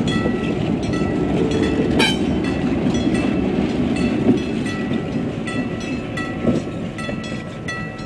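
Passenger train cars rolling past over a grade crossing with a clickety-clack of wheels on the rails, fading near the end. Over it a crossing bell rings about twice a second, and there is one sharp metallic clank about two seconds in.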